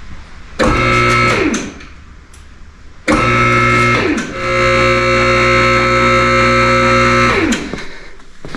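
Electric lift motor running in two bursts, a short one and then about four seconds, raising the car a little at a time off the dropped engine and K-member. It gives a steady pitched hum, and each burst winds down in pitch as the motor stops.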